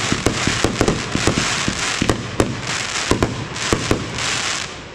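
Fireworks going off: a rapid run of sharp bangs and crackling over a continuous sizzling hiss, easing off near the end.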